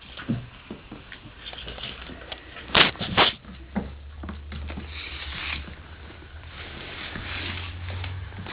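Three-week-old Portuguese Water Dog puppies scrambling about their pen: scattered scuffs and pattering clicks, with two sharp knocks close together about three seconds in.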